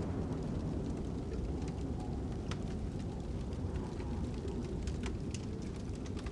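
Fire crackling with wind blowing: a steady low rumble of wind with scattered sharp pops and crackles from burning wood.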